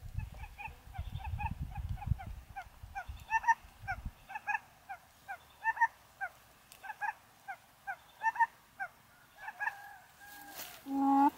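A bird's short, fowl-like calls, repeated two or three a second in irregular runs. A low rumble of wind or handling noise is under the first four seconds.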